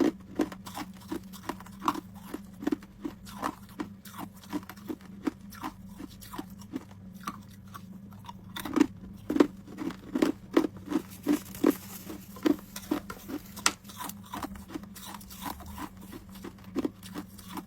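Homemade ice cubes being chewed close to the microphone: a steady run of sharp crunches, about two or three a second, over a faint steady low hum.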